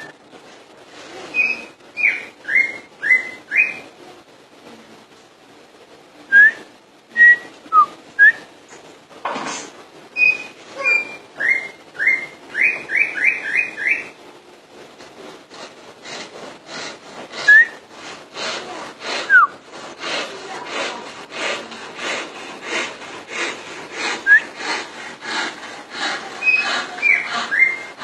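Green leafbird (cucak ijo) singing loudly: clear whistled notes, some single and some in quick runs of five or six, turning to a faster, denser stream of repeated notes in the second half.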